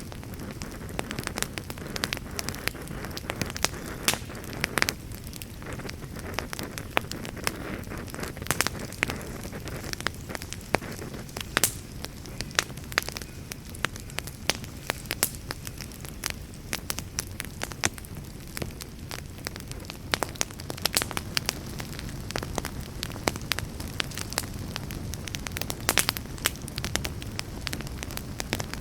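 Wood fire in a fireplace crackling and popping, with many sharp irregular pops over a steady low rumble of flames.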